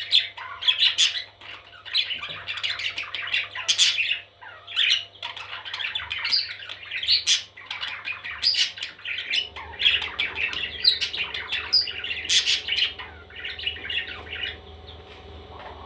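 Baby parrots squawking: harsh, raspy calls in quick repeated bursts with sharp high squeaks, dying away about a second before the end.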